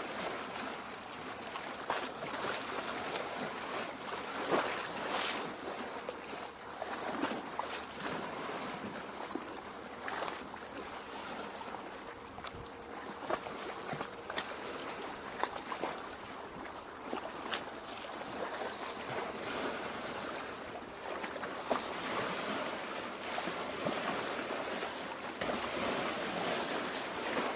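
Lake water lapping at the shore: a steady wash with frequent small splashes and trickling drips.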